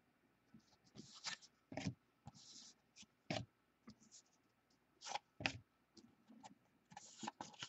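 Trading cards being handled by hand, slid and flipped one after another: faint, irregular scrapes and rustles of card stock.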